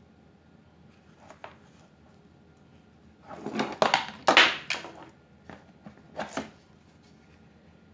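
Packaging and plastic parts being handled: a burst of rustling and clattering about three seconds in, with a few shorter knocks and a brief rustle near the end. No drill motor runs.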